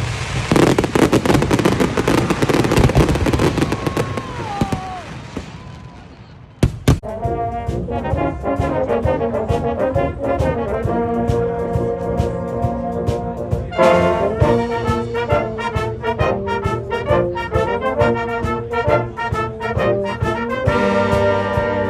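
Fireworks crackling and whistling, fading out over the first few seconds. After a sudden cut, a brass band plays, with trombones and trumpets holding chords.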